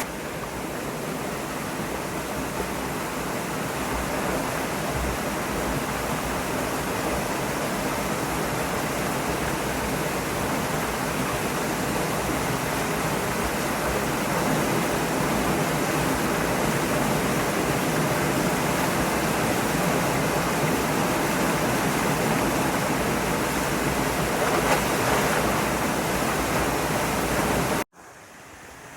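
Mountain stream water rushing over rocks in a steady, loud rush. It cuts off abruptly about a second before the end.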